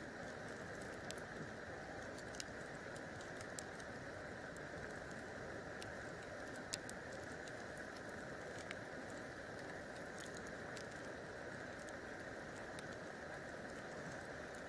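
Wood campfire crackling: irregular sharp pops and snaps over a steady low rushing hiss, with one louder pop about seven seconds in.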